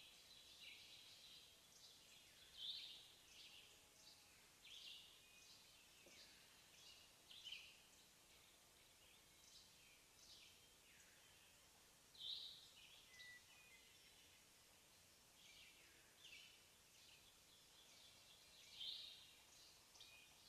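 Near silence, with faint short high chirps of small birds repeating irregularly about once or twice a second, a few of them louder.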